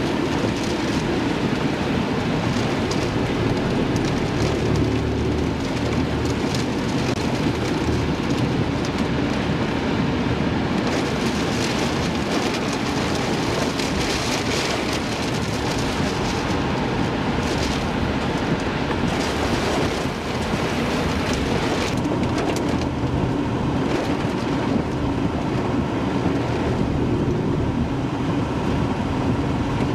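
Steady loud roar of wind and heavy rain from a tornado passing close by, with a heavy low rumble underneath.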